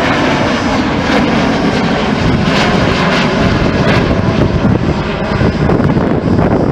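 Airliner's engines running loudly and steadily as the plane passes close by.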